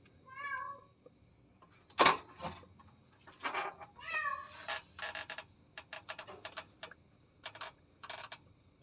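A pregnant domestic cat close to giving birth meows twice, about a second apart from the start and again past the middle. A sharp knock comes about two seconds in, and a run of short scratchy rustles follows in the second half.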